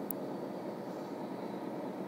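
Steady low rumble of a CSX train, with a single brief click just after the start.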